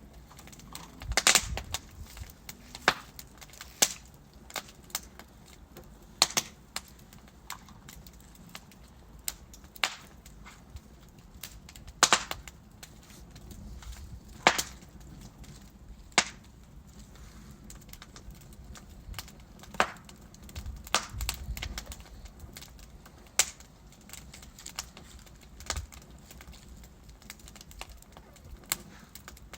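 Wood fire of burning logs crackling, with sharp irregular pops every second or two over a low steady hiss.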